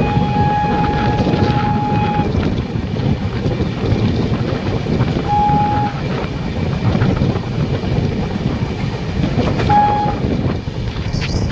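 A running train rumbles steadily. A locomotive horn sounds three times: one long blast of about two seconds at the start, a shorter one about five seconds in, and a brief toot near the end.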